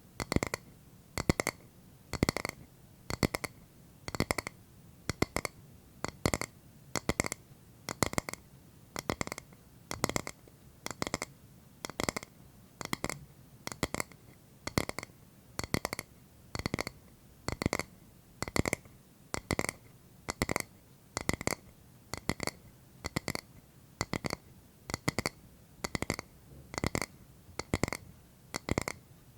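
Fingertip or nail tapping on a hard object in a steady rhythm, about one quick cluster of taps each second, each cluster with a short ring.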